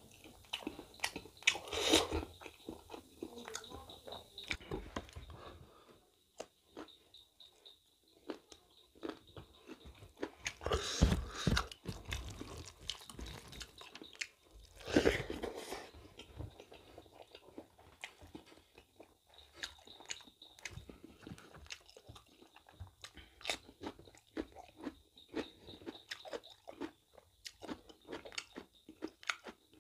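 Close-up chewing and biting of a person eating mutton innards curry and rice by hand: wet smacking chews and small clicks throughout, with louder bites about 2, 11 and 15 seconds in.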